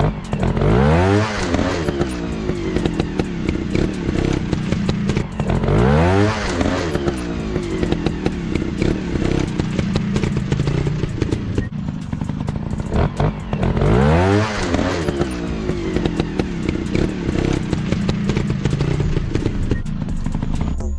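Single-cylinder trail bike engine revving up hard three times, about a second in, around six seconds and again around fourteen seconds, and running between the revs. Knocks and clatter run through it.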